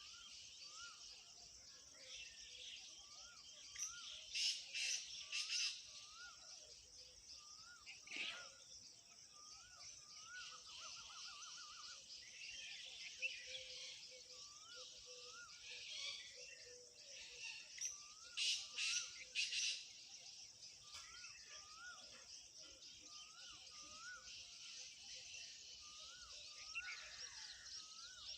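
Outdoor ambience of a dense, steady insect chorus, with short rising-and-falling chirps that repeat, mostly in pairs. Loud sharp bursts come in two pairs, one a few seconds in and one past the middle.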